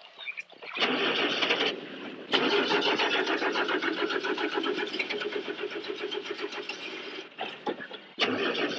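A jeep engine is cranked over by its starter motor with a fast, even churning but does not catch: a short try about a second in, a long crank of about five seconds, and another try beginning near the end. The engine will not start.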